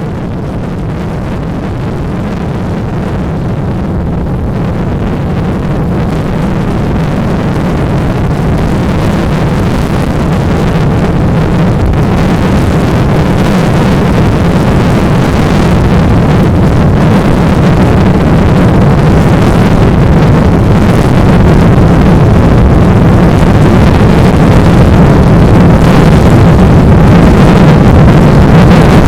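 Strong wind of up to 12 m/s on a sandy beach, rumbling heavily on the microphone over a hiss of blowing sand and surf. It grows steadily louder.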